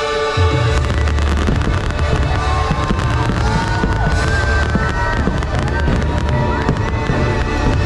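Fireworks booming and crackling in quick succession over loud show music.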